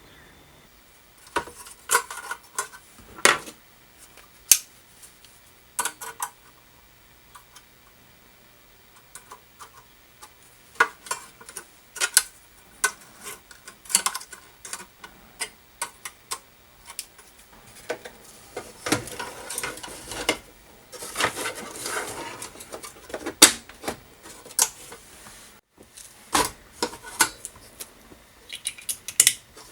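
Irregular clicks, clacks and knocks of hard tools and parts being picked up, set down and handled, with a stretch of rustling and handling noise about two-thirds of the way through.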